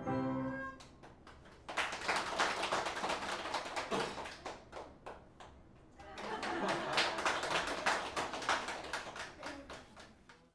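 The final note of the recorder piece dies away, then an audience applauds, swelling twice and fading out near the end.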